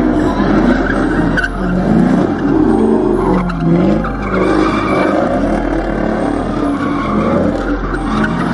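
A car's engine revving with its tires squealing and skidding, a wavering pitch that rises and falls over and over.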